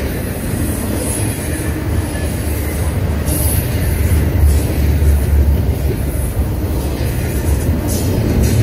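Double-stack intermodal train's loaded well cars rolling past at close range: a steady low rumble of steel wheels on the rails.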